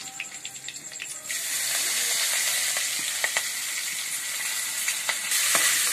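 Chopped green chillies and coriander leaves dropped into hot oil in a kadai for a tadka, sizzling hard from about a second in and louder again near the end as more goes in.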